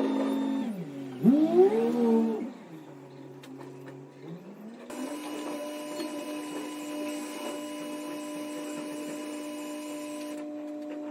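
A small electric motor hums steadily, slowing to a lower pitch and speeding back up: once about a second in with a loud surge, again around four to five seconds in, then holding its higher speed and starting to slow near the end.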